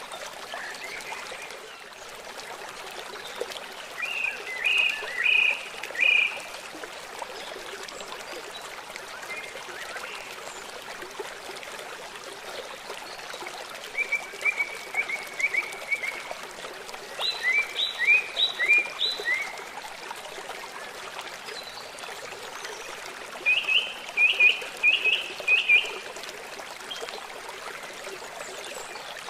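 A songbird sings four short phrases of quick, repeated notes over the steady rush of running water.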